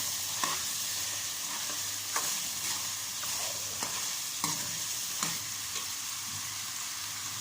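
Chicken gizzards and livers frying in oil with onion and tomato, a steady sizzle, broken by a few brief scrapes of a spoon stirring the pan.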